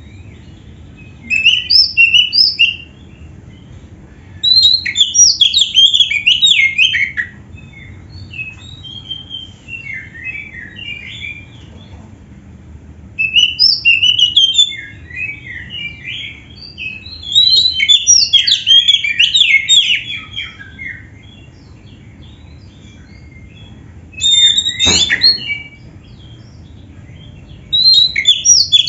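Oriental magpie-robin (kacer) singing: a string of loud, rapid phrases a few seconds long with quick jumps in pitch, broken by short pauses. Its song is filled with canary-style phrases.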